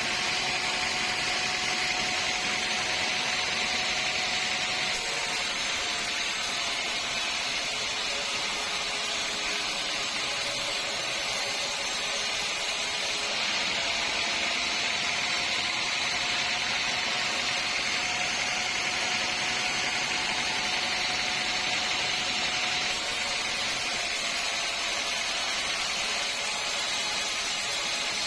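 Sawmill saw machinery running steadily: a continuous high-pitched mechanical noise with a faint wavering tone underneath.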